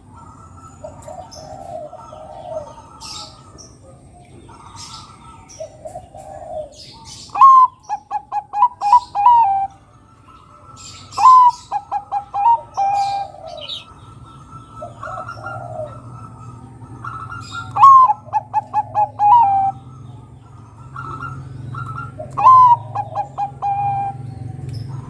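Bangkok-type zebra dove (perkutut) singing: four loud cooing phrases, each opening on a high note and running into a rapid string of about six short notes that step down in pitch, with softer lone coos between them.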